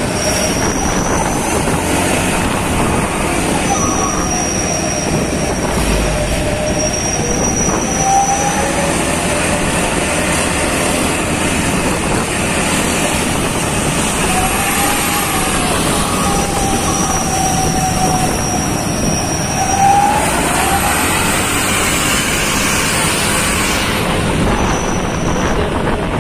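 Loud, steady vehicle noise, with a few faint whining tones that drift up and down in pitch.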